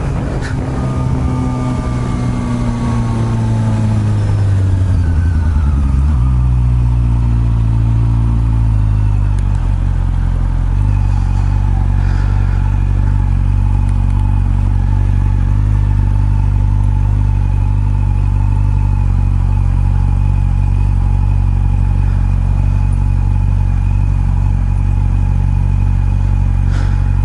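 Honda CB400 Super Bol d'Or (NC42) inline-four with an r's gear aftermarket exhaust. Its engine note falls as the revs drop over the first several seconds, then settles into a steady idle.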